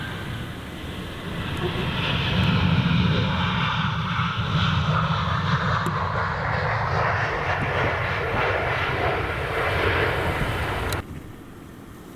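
Jet airliner's engines as it passes close on landing, a steady rush that swells about two seconds in and cuts off suddenly near the end.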